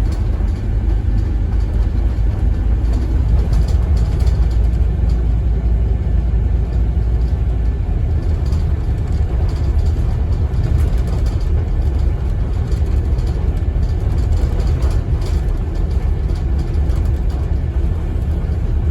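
Scania N270UD OMNICity double-decker bus heard from inside the cabin: its five-cylinder diesel runs with a steady low rumble, under road noise and faint rattles now and then.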